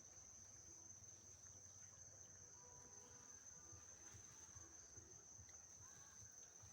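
Faint crickets trilling steadily, one continuous high-pitched drone.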